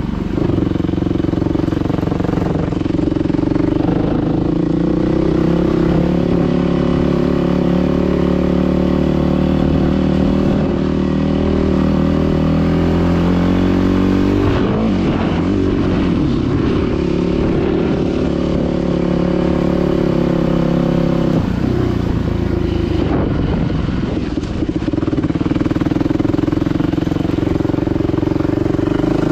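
Dirt bike engine running while riding, its pitch climbing steadily as it revs up about ten to fourteen seconds in, then dropping and shifting with throttle changes a couple of times later on.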